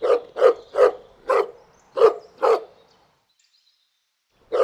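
A dog barking: a run of about six sharp barks, a pause of over a second, then another run of barks starting near the end.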